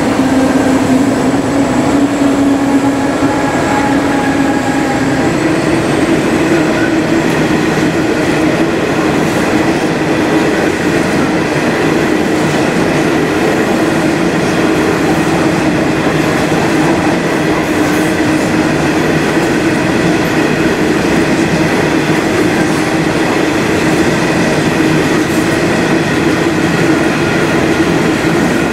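Coal train hauled by 82 class diesel-electric locomotives passing close by at speed. The tail of the locomotive consist drones for the first few seconds, then comes a long, steady, loud rumble and clatter of empty coal hopper wagons rolling past on their way back to the colliery.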